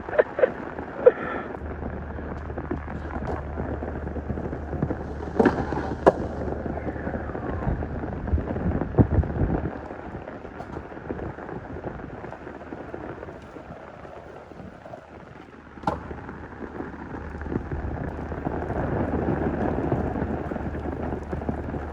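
Steady rain and wind noise, broken by a few sharp knocks of a skateboard on concrete and a short louder rumble near the middle.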